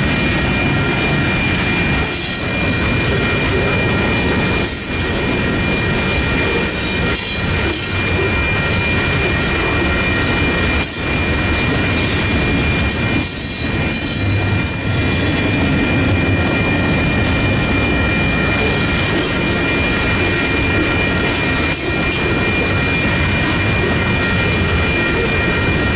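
Freight train boxcars rolling over the crossing, steel wheels clattering on the rails with brief high wheel squeals now and then. Over it, the crossing's Western Cullen Hayes electronic bells ring on as a steady high tone.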